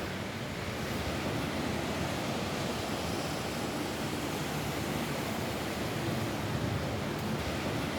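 Rain falling on a roof: a steady, even hiss of rain with a low rumble beneath it.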